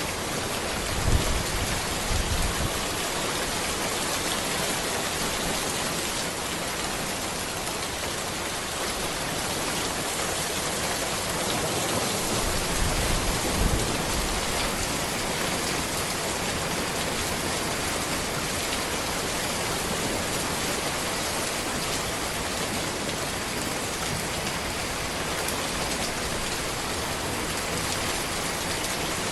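Steady heavy rain falling on a road, an even dense hiss of drops. There are a few brief low rumbles about a second in and again near the middle.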